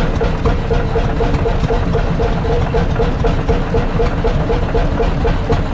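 Big old engine running steadily, with an even beat of about five pulses a second over a heavy low rumble.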